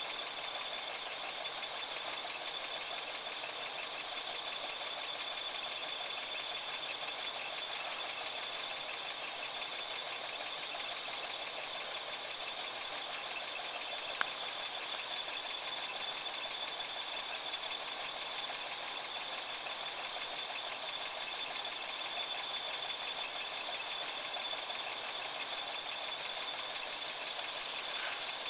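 A four-wheel-drive's engine running steadily at low revs, with a fast, even pulse, and a single faint click about halfway through.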